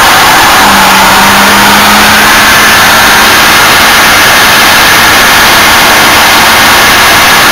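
Car engine held at high revs, very loud and steady, with the recording overloaded into a continuous distorted roar.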